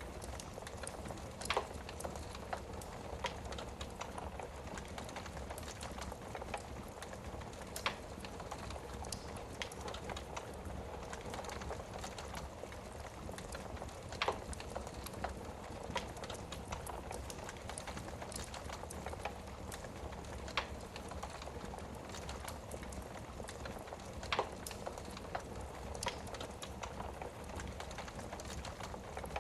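Wood fire burning in a fireplace: a steady soft hiss with sharp crackles and pops scattered every few seconds.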